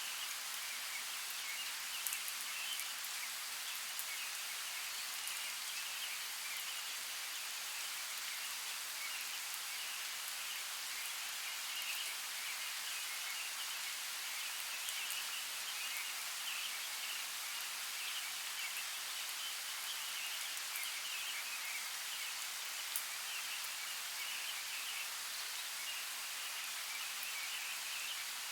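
Steady rain falling, an even hiss with a few sharper drop ticks, one about two seconds in and another near the end.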